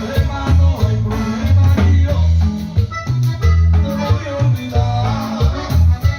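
Live Latin band playing an upbeat dance number: a bouncing bass line, melody instruments and steady shaker-like percussion.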